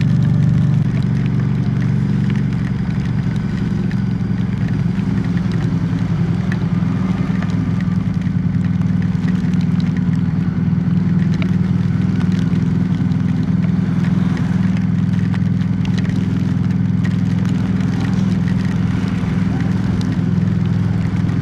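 Harley-Davidson Street 500's V-twin engine running steadily at low cruising speed, a constant low drone.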